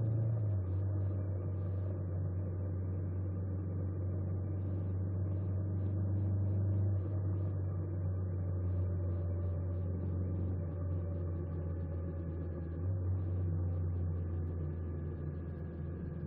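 An engine running at a steady speed: a low, even hum that shifts slightly in pitch twice, with faint ticking over it.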